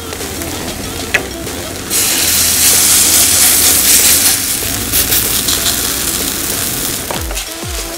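Grated-potato pancake batter sizzling in hot oil in a frying pan. The sizzle jumps louder about two seconds in, as a second spoonful of batter goes into the oil.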